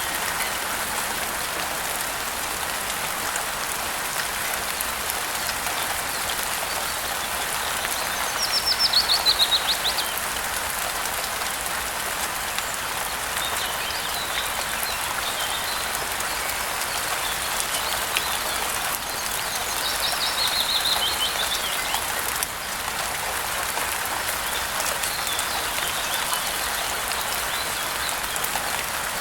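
Steady rain falling, with a bird singing a short falling trill twice, about nine and twenty seconds in, and fainter chirps between.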